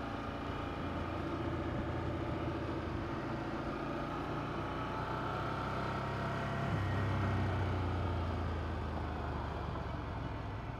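Ducati Monster 797's air-cooled L-twin engine running steadily while riding, its note growing stronger about two-thirds of the way in.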